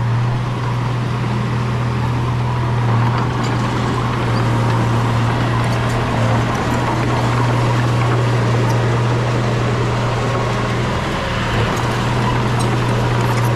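Heavy construction machine's diesel engine running steadily, a strong low drone with a faint rattle of small clicks.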